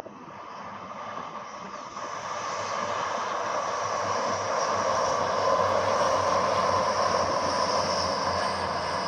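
Train passing, its rolling noise building over several seconds to a peak and easing off near the end.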